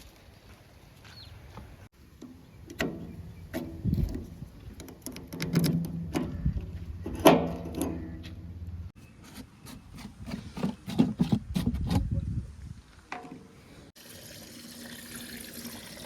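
JCB 3DX backhoe loader's diesel engine running and revving, with sharp clanks and knocks of the bucket and wet mud sloshing and splashing as it is loaded. Near the end a steady wash of running-water-like noise.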